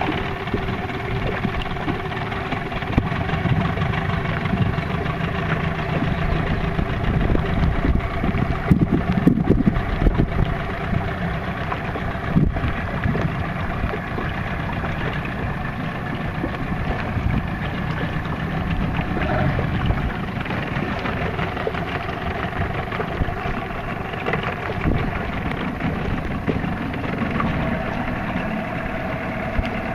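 A boat's engine running steadily under way, a constant drone with a low rumble, mixed with wind and water noise.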